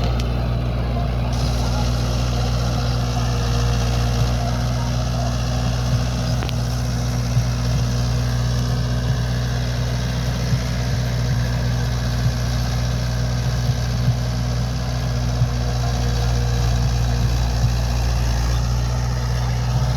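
Tractor diesel engine running steadily under load while pulling a rotavator, with a deep, constant drone.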